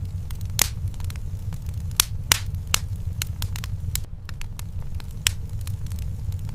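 Wood fire in a fireplace crackling: sharp, irregular pops and snaps over a steady low rumble of the flames.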